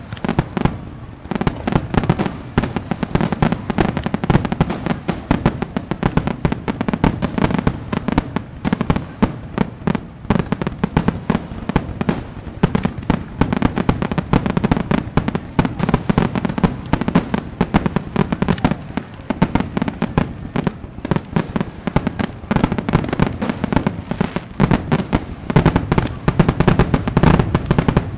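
Fireworks going off in a dense, continuous barrage: rapid overlapping bangs and crackles with a low rumble beneath.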